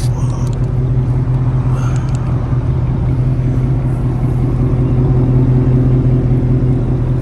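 2006 Dodge Charger R/T's 5.7-litre Hemi V8 idling steadily through a muffler-delete exhaust with Flowmaster Super 10 resonators, catalytic converters still in place.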